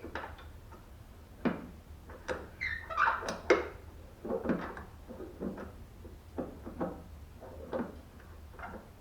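Hand work on a car door's hinge and check-roller area: a string of short metal clunks, clicks and scrapes as parts and tools are handled, with a brief squeak about three seconds in.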